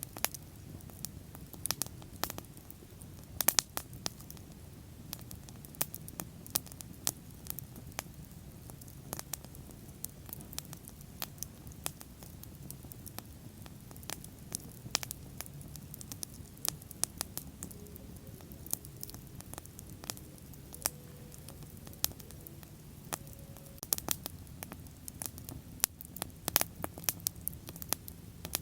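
Wood fire burning, with frequent sharp, irregular crackles and pops over a low, steady rush of flame.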